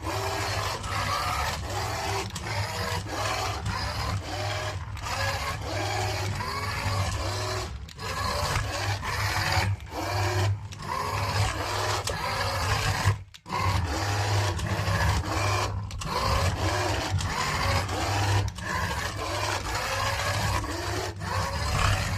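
A small motor running unevenly: a steady low hum with wavering whirring above it, cutting out briefly several times.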